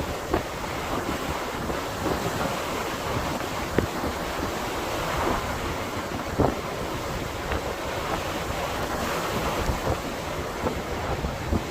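Blizzard wind blowing hard across the microphone: a steady rush with a few brief buffeting thumps.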